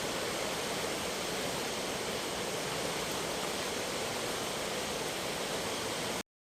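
Steady rush of fast-flowing floodwater, an even wash of noise with no other sound, cutting off abruptly near the end.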